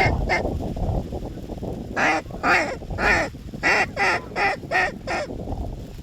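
Goose honking: two quick honks at the start, then a rapid run of about eight honks from about two seconds in to near the end, over a steady low rumble of wind.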